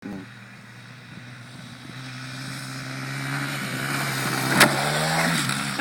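Honda CRF100F dirt bike's small single-cylinder four-stroke engine running, getting steadily louder as it comes closer, its pitch creeping up. A sharp click comes about four and a half seconds in, and the engine note drops near the end.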